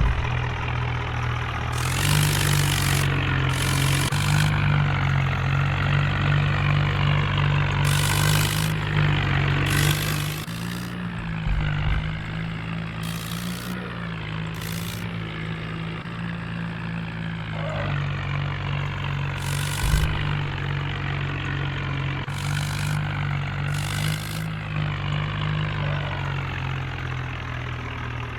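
Farmtrac tractor's diesel engine running steadily, picking up a little about two seconds in and settling back after about eleven seconds. Short bursts of hiss break in several times.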